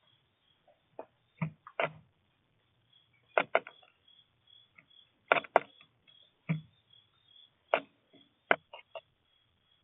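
Small birds at a feeder tapping and knocking: about a dozen irregular sharp taps, some in quick pairs and some with a dull thud, as they peck at seed and land on the feeder.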